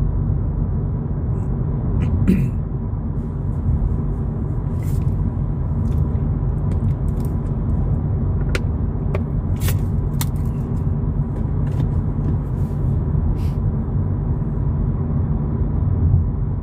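Road and engine noise inside the cabin of a 2022 Volkswagen Polo GTI on the move: a steady low rumble with a faint steady tone above it. Brief light ticks come now and then.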